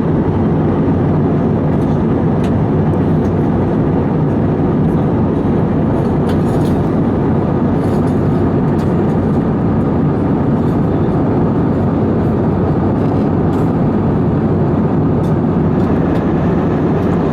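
Steady drone of an Airbus A320's twin jet engines and rushing airflow, heard inside the passenger cabin in flight.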